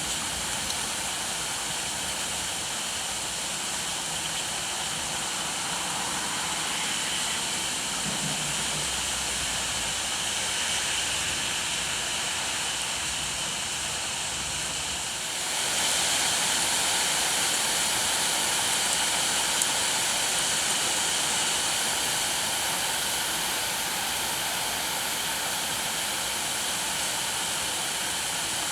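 Steady rainfall, a continuous hiss that grows louder about halfway through.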